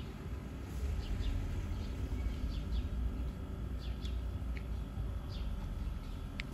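Small birds chirping in short, scattered notes over a steady low rumble.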